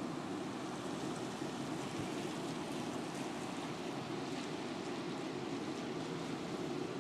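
Steady rain falling during a thunderstorm, an even rushing hiss with faint scattered ticks of drops.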